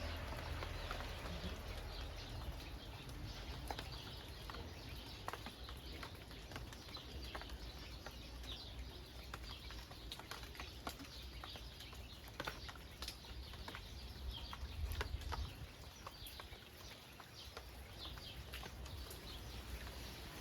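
Rain falling steadily, with many individual drops pattering close by, and birds calling through it. A low rumble swells at the start and again about three-quarters of the way in.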